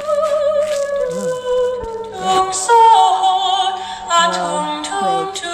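Singing voice played back from a meme sound file: held notes that waver and step from pitch to pitch, starting abruptly.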